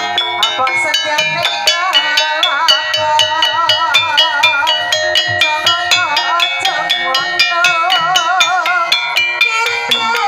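Javanese gamelan music in the Banyumasan tayub style: struck metallophones and percussion play a steady run of quick, evenly spaced strokes. A sinden sings a long, wavering melodic line over them through the middle of the passage.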